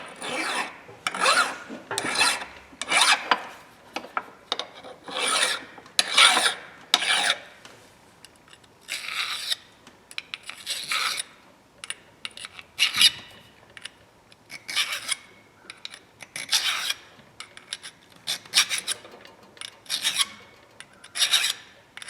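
Hand file scraping back and forth on the steel of an adjustable wrench in repeated short strokes, filing off a burr (a nick) that is keeping the part from sliding out. The strokes come about once a second at first, then in sparser, irregular runs with short pauses.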